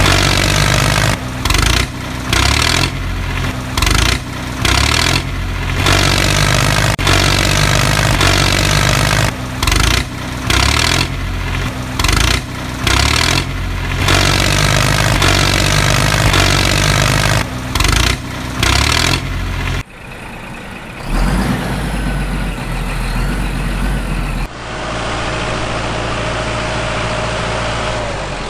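A vehicle engine running, its sound chopped by many sudden short dropouts, then changing abruptly twice in the last eight seconds.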